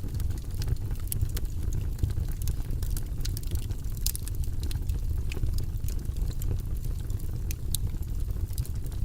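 Wood fire crackling in a fireplace: irregular sharp pops and snaps, several a second, over the steady low rumble of the flames.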